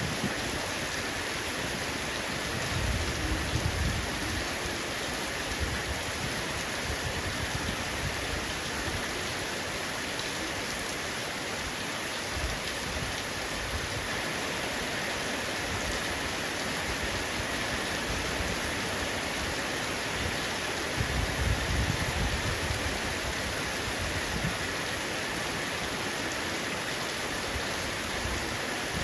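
Heavy rain falling steadily on a roof, a dense even patter, with brief low rumbles swelling twice, a few seconds in and about two-thirds of the way through.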